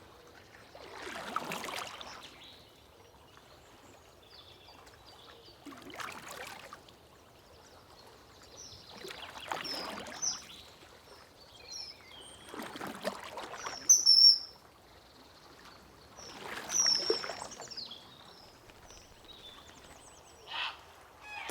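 Water swishing in five slow swells about four seconds apart, with short high bird chirps between them.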